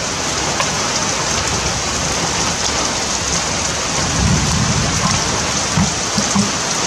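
Heavy rain pouring down, a steady hiss of rain on surfaces, with a few brief low thumps about four seconds in and near the end.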